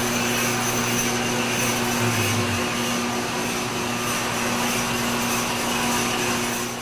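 Shop vacuum running steadily, drawing fiberglass dust from the bore while a boring bar takes a smooth cut in the fiberglass tube. The boring bar is cutting cleanly, without singing or chatter.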